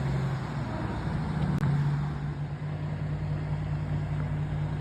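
Truck engine running steadily with a low drone; its pitch steps up slightly about half a second in.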